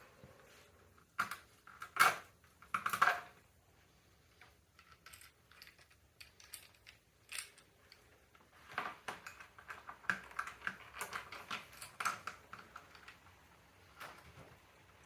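Small metal parts and tools clinking and clattering while a bracket is fitted on a bicycle: a few sharp knocks between one and three seconds in, then a longer run of quick light rattling from about nine to twelve seconds.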